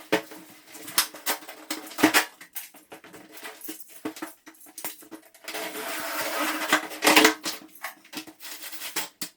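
Irregular knocks, clicks and clatter of hand work with the new door frame parts, with a longer scraping rustle from about five and a half to seven seconds in.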